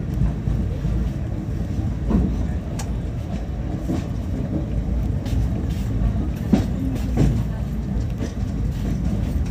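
Passenger train running along the track, a steady low rumble heard from inside a coach at the open window, with a few faint clicks from the wheels and track.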